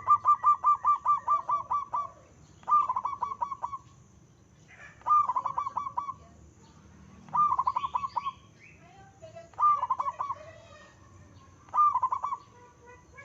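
Zebra dove (perkutut) cooing with a big voice: six bursts of rapid staccato notes, the first about two seconds long and the rest about a second each, coming roughly every two seconds.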